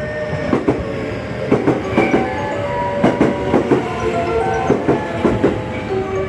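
Electric train wheels clacking over rail joints as the train runs along the platform: repeated sharp clicks, mostly in quick pairs as each bogie's wheelsets cross a joint, over a steady rolling rumble.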